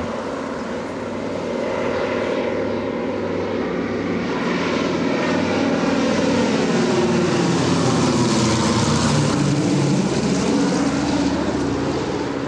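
Propeller-driven military transport aircraft flying low overhead. The engine drone builds in loudness and then drops in pitch as the aircraft passes.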